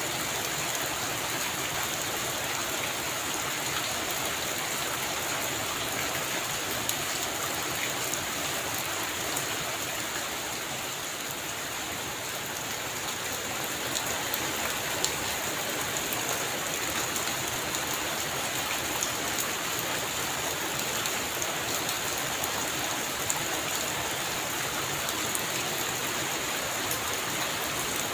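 Heavy rain falling steadily: an even, dense hiss with scattered sharp taps of individual drops.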